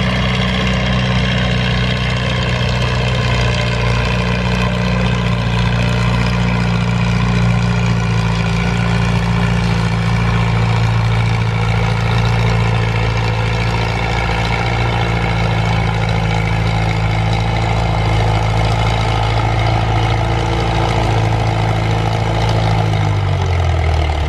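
Farm tractor engine running hard and steady while pulling a weight sled down the track. Its pitch drops near the end as it throttles back at the end of the pull.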